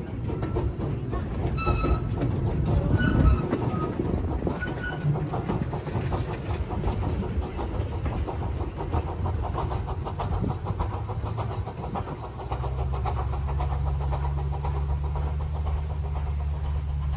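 Narrow-gauge steam train running on the line, its wheels clicking rapidly over the track. A steady low hum comes in after about twelve seconds.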